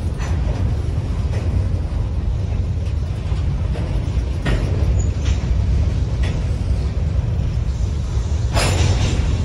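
Empty covered hopper cars of a freight train rolling past close by: a steady low rumble of steel wheels on rail, with a few short clanks and a louder clatter near the end.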